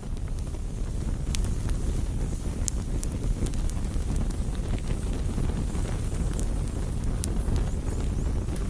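Campfire burning: a low steady rumble with scattered sharp pops and crackles from the burning wood.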